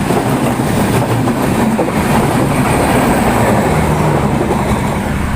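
Intercity passenger train passing close by, a steady loud noise of wheels running on the rails.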